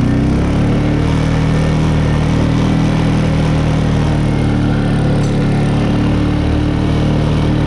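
2014 TGB Blade 425 quad bike's single-cylinder engine accelerating hard at about half to three-quarter throttle, its pitch climbing over the first second and then held steady at high revs.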